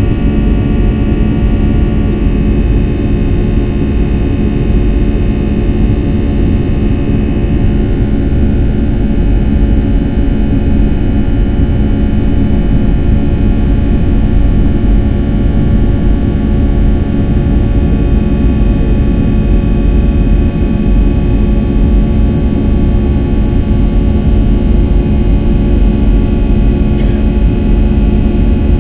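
Airliner engines running steadily, heard from inside the passenger cabin as a loud rumble with a steady drone and several whining tones. The highest whine fades a few seconds in.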